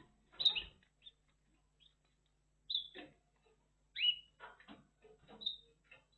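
Red factor canary giving a few separate short chirps, several sliding quickly down in pitch, with short scratchy noises between them.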